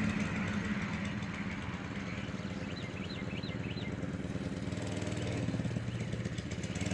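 Mini bike's small engine running steadily, its note dipping in the middle and growing louder again toward the end.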